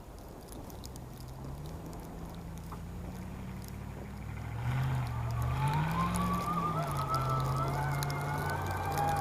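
Electric mobility scooter's drive motor whining while moving, its low pitch rising and falling with speed; from about five seconds in a louder, higher wavering whine joins.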